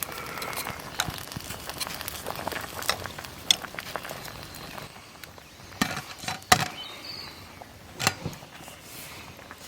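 Scattered clinks and knocks of cooking gear being handled, with a few louder knocks about six and eight seconds in.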